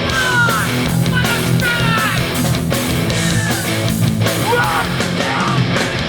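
Hardcore punk band playing live and loud: distorted electric guitars, bass and drums, with high notes that slide in pitch over a heavy low end.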